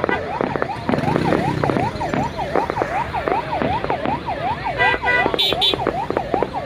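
A yelping siren-type warble whose pitch sweeps rapidly up and down, about three sweeps a second. Steady horn blasts join in near the end, over a noisy crowd background.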